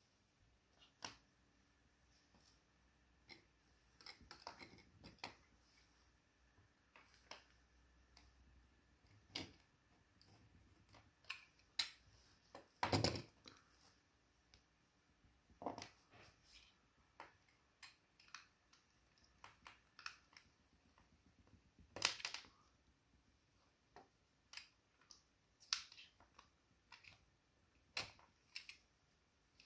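Sparse small clicks, taps and light scrapes of hands handling small parts and tools, with a longer, louder scrape about halfway through and another loud click-and-rustle later on.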